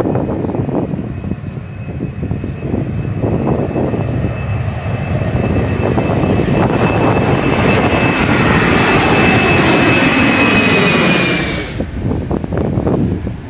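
Jet airliner's engines passing close: a deep rumble with a high fan whine that builds to a peak, the whine gliding slightly lower, then cutting off suddenly near the end.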